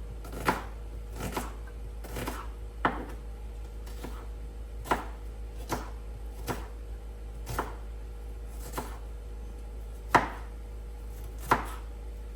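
Kitchen knife cutting an onion on a cutting board: slow, separate chops, each a sharp knock of the blade on the board, about one a second at an uneven pace.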